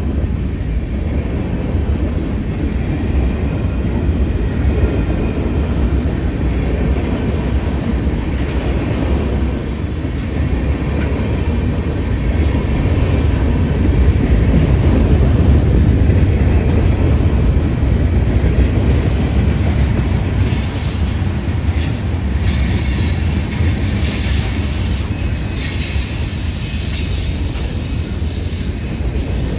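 Union Pacific freight train rolling past: a steady rumble and clatter of car wheels on the rails, with higher wheel squeal and screech in the second half.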